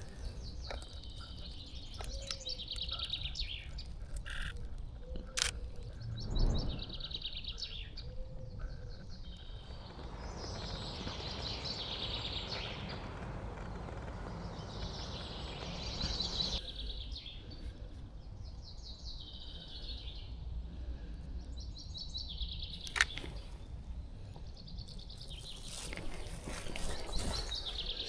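Songbirds singing and calling, with short repeated chirping phrases throughout and a few sharp clicks.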